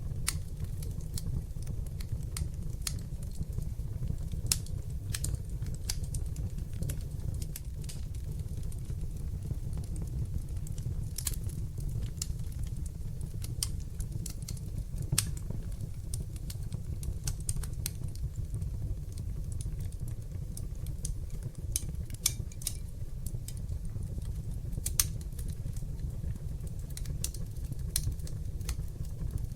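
Wood fire in a fireplace crackling: irregular sharp pops and snaps, a few louder than the rest, over a steady low rumble of burning.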